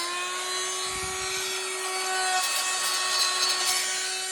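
Handheld power tool running at a steady high speed, cutting or grinding with a rasping sound. Its motor speeds up slightly at the start and holds its pitch.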